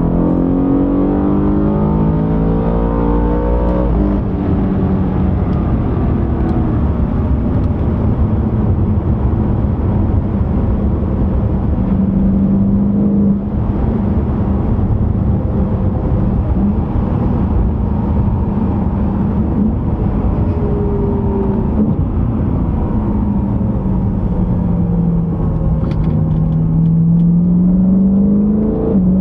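BMW E92 M3's 4.0-litre V8 engine under way. It revs up and drops sharply at a gear change about four seconds in, runs fairly steadily through the middle, and climbs in revs again near the end.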